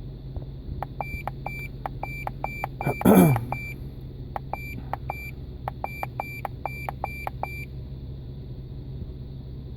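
The Dodge Dakota's electronic warning chime beeps about three times a second over a steady low hum, then stops a few seconds before the end. About three seconds in, a loud, brief sound sweeps down in pitch.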